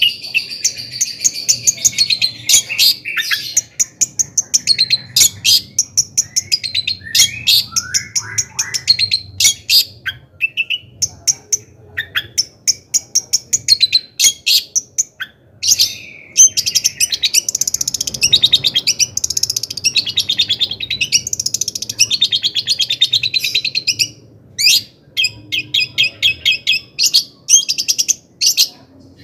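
Long-tailed shrike (cendet) singing continuously: a fast, unbroken run of short, sharp chirps and trills, with a denser scratchy chatter in the middle.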